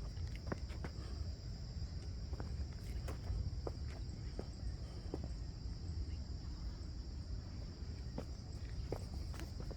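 Steady high-pitched chirring of an insect chorus, crickets, with scattered footstep clicks on the ground and a low rumble on the microphone.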